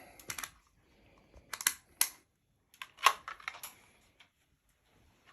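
Sharp clicks and light rattles of small hardware being handled, in a few short clusters with quiet gaps between.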